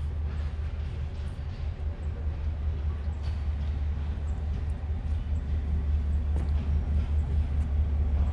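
Train running along the track: a steady low rumble with faint scattered clicks, growing somewhat louder over the last few seconds.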